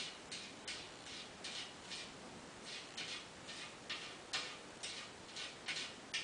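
A cat scratching, short scratchy strokes coming irregularly about two or three a second, as when it paws to bury its waste.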